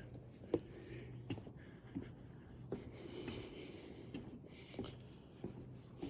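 Faint footsteps on a wooden boardwalk, about three steps every two seconds.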